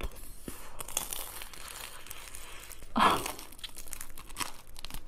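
Crunching and chewing of a crispy breaded air-fryer chicken cutlet, with close, crackly bites and one louder crunch about three seconds in.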